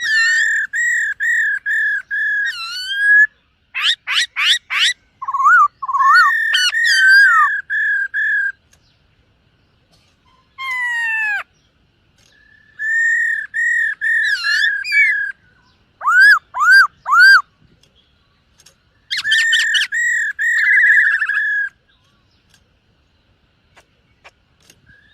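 Black-throated laughingthrush singing: loud, clear whistled phrases of quickly repeated notes, mixed with rapid sweeping notes, broken by short pauses and a longer pause near the end.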